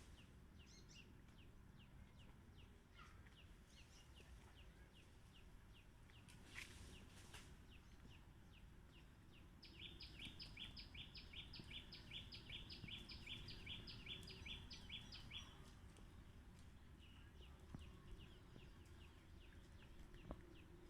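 Faint rural ambience with small birds chirping steadily, about three short calls a second, and a louder run of quick two-note calls lasting about six seconds in the middle, over a low wind-like rumble.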